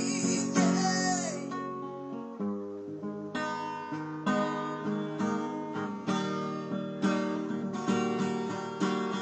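Acoustic guitar strummed in steady chords, about one strong strum a second, as the accompaniment to a sung cover. A held, wavering sung note trails off in the first second and a half.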